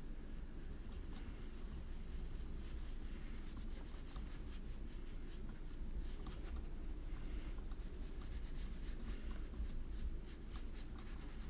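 Watercolor paintbrush stroking across a coloring-book page: a run of short scratchy brush strokes on paper over a steady low hum.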